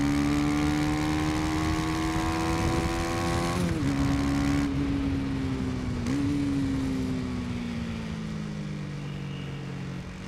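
KTM 250 Duke's single-cylinder engine under way: the note climbs slowly, drops sharply with a gear change about four seconds in, dips briefly and recovers around six seconds, then falls steadily as the bike slows.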